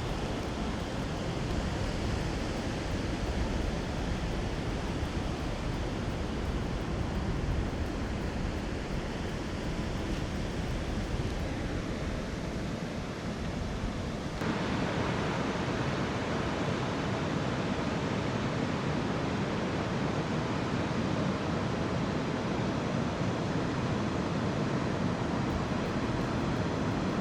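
Ocean surf and wind, a steady rushing noise. About halfway through it shifts abruptly and gets slightly louder and fuller.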